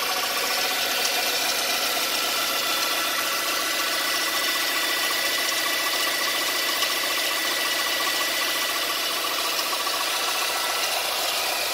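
Mercedes CLK 200 Kompressor's supercharged four-cylinder engine idling steadily with its serpentine belt removed, so the belt-driven accessories are not turning.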